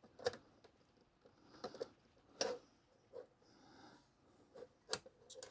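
Faint, scattered clicks and light scrapes of a screwdriver and wire being worked at a screw terminal, about half a dozen small ticks spread through the moment.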